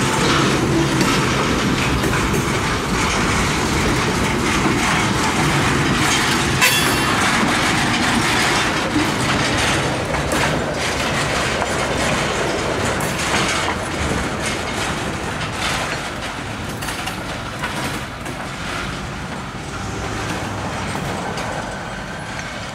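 Freight train cars rolling past at close range, steel wheels clacking over the rail joints, with one sharp click about seven seconds in. The sound slowly fades as the last car moves away.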